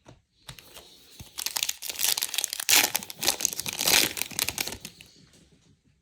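A trading-card pack wrapper being torn open and crinkled: a dense crackling rustle lasting about three seconds, starting about a second and a half in.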